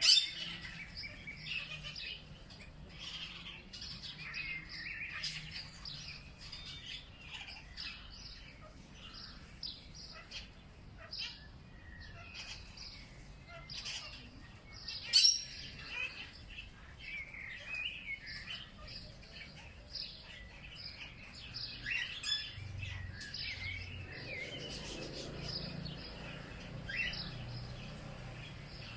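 Several birds chirping and calling over one another, short twittering notes with no pauses. A sharp, much louder call comes right at the start and another about halfway through.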